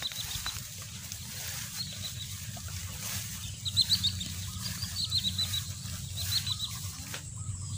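Small birds chirping in several quick clusters of short high notes, over a steady thin high insect tone and a low rumble.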